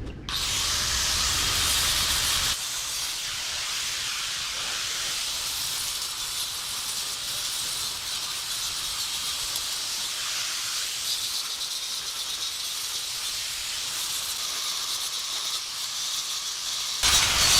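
A pressurised jet hissing steadily, with a lower rumble under it that drops away about two and a half seconds in. A louder stretch of the same hiss starts near the end.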